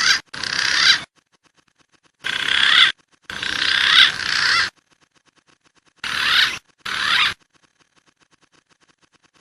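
Green pigeon (punai) whistling calls from a bird-lure recording, in six short bursts that start and stop abruptly, the high notes wavering up and down. Faint regular ticking sounds in the gaps between bursts.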